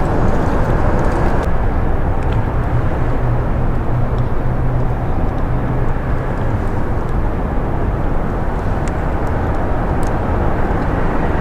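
Steady rumble of highway traffic crossing the I-95 bridge overhead, an even wash of tyre and engine noise with a faint low hum through the middle.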